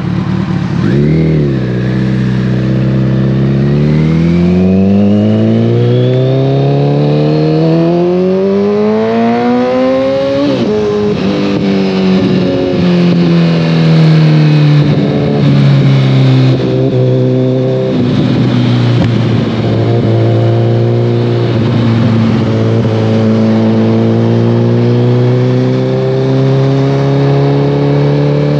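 2014 Kawasaki ZX-14R's inline-four engine through a full Brock's Alien Head 2 exhaust, heard on the move. A quick throttle blip comes about a second in, then a long pull rises in pitch for about eight seconds and drops sharply at an upshift. The throttle wavers for a few seconds, then the bike settles into a steady cruise with the pitch slowly climbing.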